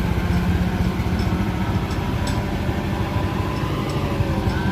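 Diesel engine of a Mitsubishi engkel light truck running steadily, a dense low rumble.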